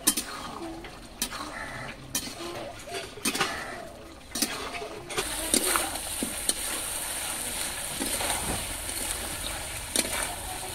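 Chicken pieces frying in a metal kadai over a wood fire, stirred with a spatula that scrapes and knocks against the pan about once a second. A steady sizzle comes up about halfway through.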